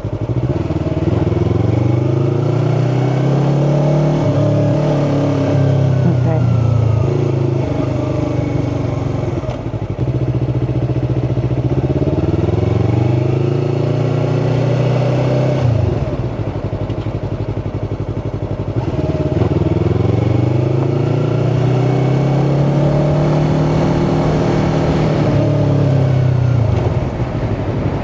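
Yamaha R3's 321 cc parallel-twin engine heard from the rider's helmet, speeding up and easing off three times: its pitch climbs as the throttle opens, then drops back.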